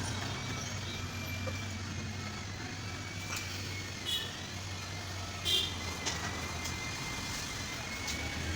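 A steady low mechanical hum with a faint high whine over it, broken by a few short metallic clinks and knocks.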